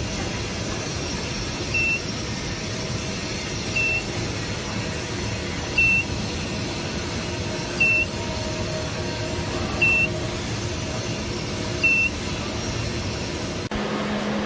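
Short, high electronic beeps about every two seconds, seven in all, over a steady machine hum. Near the end the background changes abruptly to a lower, steadier hum.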